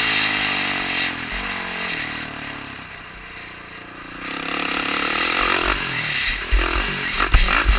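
Kawasaki KX125 two-stroke dirt bike being ridden on a motocross track, heard from a helmet camera. The engine note falls as the throttle is rolled off, dips quieter for a second or two in the middle, then picks up again with rising revs. Heavy low thumps near the end.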